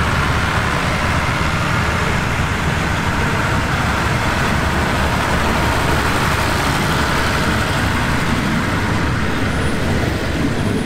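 Passenger coaches of a train rolling past close by: a steady rumble of steel wheels on the rails, easing slightly near the end as the last coach goes by.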